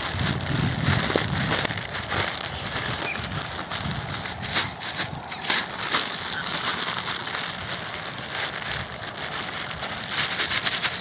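The last bit of food for the ducks and birds being crushed up by hand, giving an unbroken run of irregular crinkling crackles.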